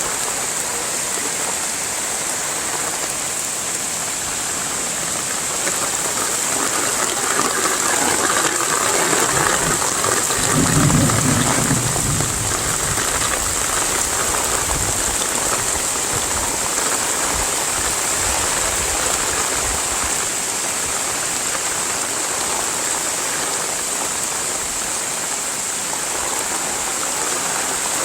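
Heavy rain falling steadily, a constant hiss. There is a brief low rumble about ten seconds in.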